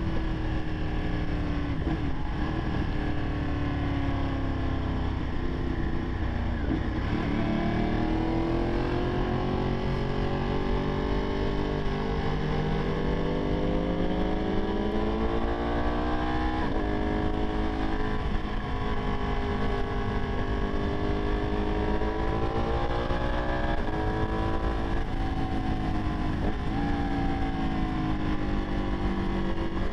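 Ducati 959 Panigale's L-twin engine running under way. Its pitch climbs steadily and drops back several times as the rider accelerates and eases off, over a steady rush of wind noise on the microphone.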